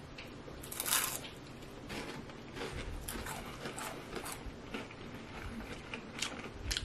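Biting and chewing a Kinder Happy Hippo, a crisp wafer-shell biscuit: irregular small crunches and crackles, with a sharper crunch about a second in.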